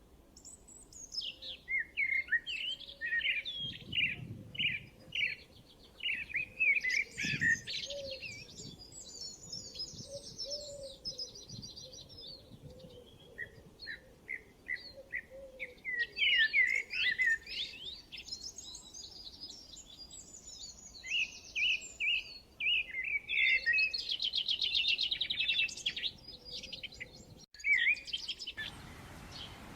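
Several songbirds chirping and trilling in quick runs of short, high notes, with overlapping calls throughout. A steady hiss comes in near the end.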